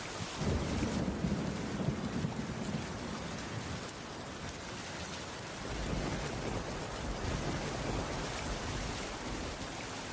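Steady rain with low rumbles of thunder, one starting about half a second in and another around six seconds in.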